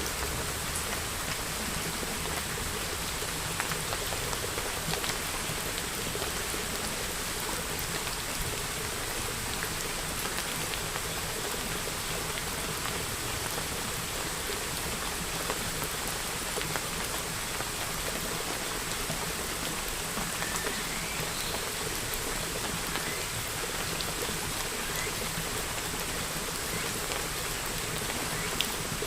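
Steady, even rainfall with scattered individual drops ticking on a surface.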